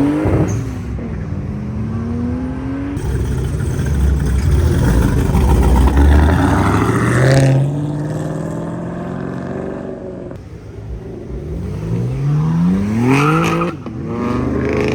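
Cars accelerating hard: engine pitch climbs, drops and climbs again through several gear changes, with a loud low exhaust rumble near the middle.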